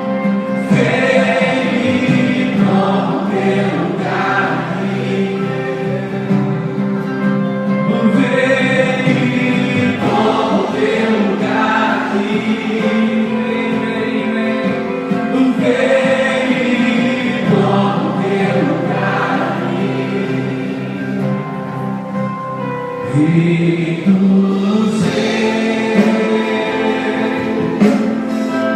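Gospel worship music: a choir of voices singing a worship song in phrases of a few seconds each.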